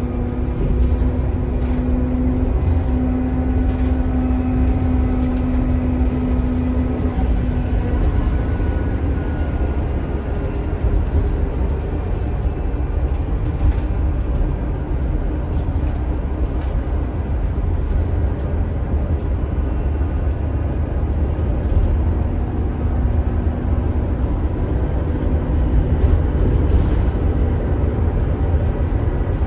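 Scania K280IB bus's five-cylinder 9.3-litre DC9 turbo diesel and ZF Ecomat six-speed automatic running under way: a steady low rumble with whining tones from the engine and driveline that shift in pitch as the bus moves, one strong tone fading out about eight seconds in.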